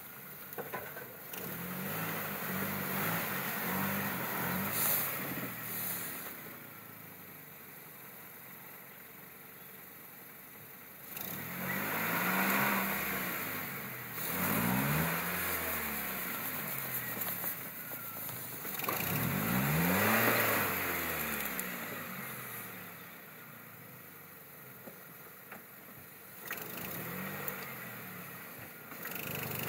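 Nissan X-Trail's 2.5-litre four-cylinder petrol engine revving in repeated surges, its pitch climbing and falling, as the SUV pulls through deep mud in two-wheel drive. Quieter stretches come between the surges.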